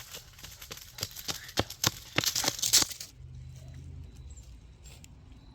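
Crunching and crackling of dry fallen leaves underfoot, a quick irregular run of crunches that grows louder and stops about three seconds in.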